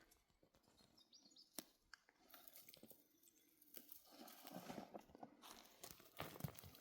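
Near silence with faint rustling and scattered small crackles, the rustling growing a little louder from about four seconds in.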